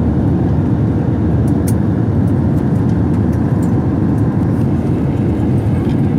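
Steady low rumble of airliner cabin noise during the landing descent: engine and airflow noise heard from inside the cabin, with a few faint clicks about one and a half seconds in.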